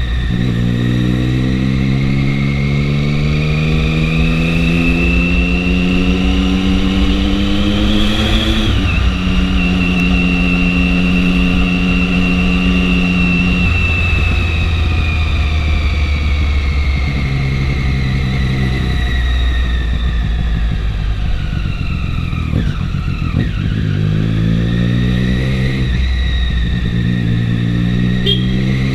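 Triumph 675 inline-three motorcycle engine under way with wind noise. The pitch climbs for about eight seconds, drops at a gear change, holds steady, then eases off and slows a little past twenty seconds before climbing again.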